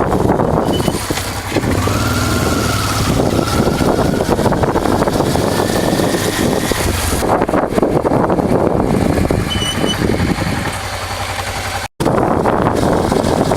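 1988 Honda Transalp's V-twin engine running under way, with a steady rushing noise over it. The sound cuts out for an instant near the end.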